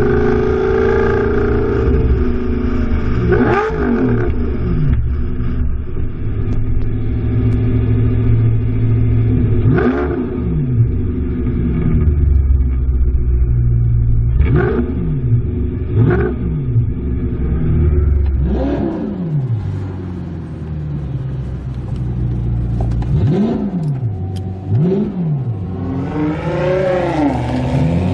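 Supercar engine and exhaust heard from an onboard camera, running steadily with about eight short revs that climb and drop back down.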